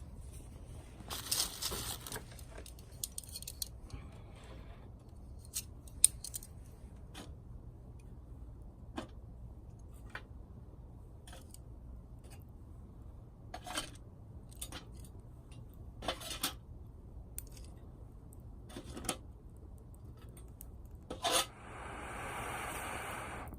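Irregular sharp snaps and crackles of small twigs, spaced a second or more apart, as twigs are broken and burn in a small stainless mini fire pit. Near the end comes a brief soft hiss lasting about a second and a half.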